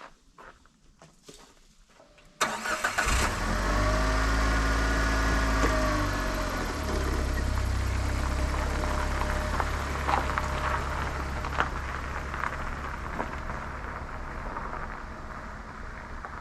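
Suzuki Every Wagon van's engine starting: after a couple of seconds of faint taps, a short burst of cranking, then the engine catches and runs at a raised idle that drops to a lower, steady idle a few seconds later.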